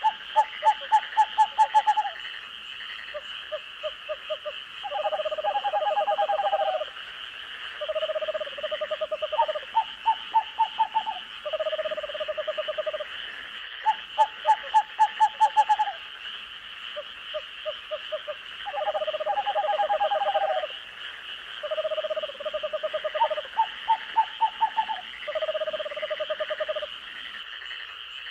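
Night-time chorus of frogs: bouts of rapid pulsed croaking calls, each lasting one to two seconds, over a steady high-pitched trilling chorus.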